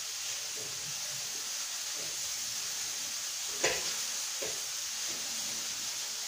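Chicken breasts frying in a pan over medium heat, with a steady sizzle. A sharp knock sounds about three and a half seconds in, followed by a lighter one.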